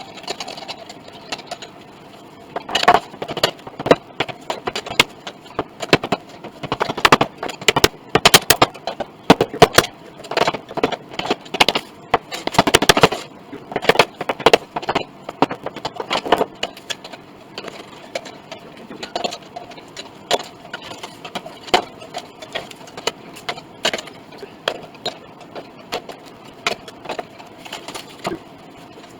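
Irregular clicks, knocks and clatter from hand work, coming thick and fast for the first half and then sparser.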